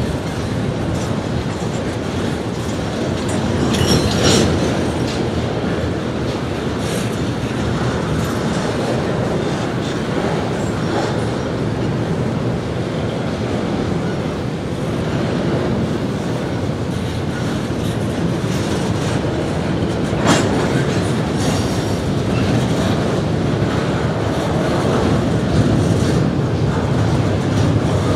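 Norfolk Southern double-stack intermodal freight train rolling steadily past, its wheels clicking over the rail joints. There are sharper metallic clanks about four seconds in and again about twenty seconds in.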